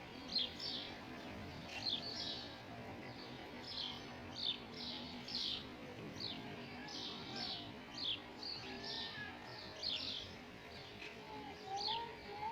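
Small birds chirping repeatedly: short, quick downward-sweeping high chirps, one or two a second, over a faint background hiss.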